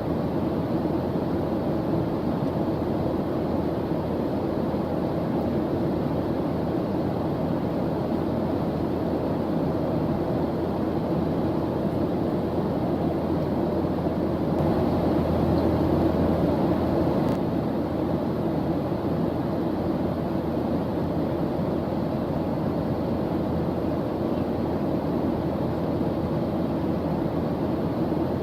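A steady white-noise background track, deep and rumbling with little hiss, swelling slightly about halfway through.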